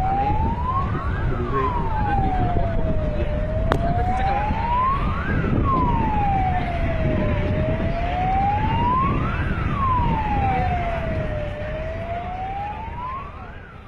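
Emergency vehicle siren wailing, its pitch rising and falling slowly about once every four seconds, over a low rumbling noise. A single sharp click a little under four seconds in, and the sound fades near the end.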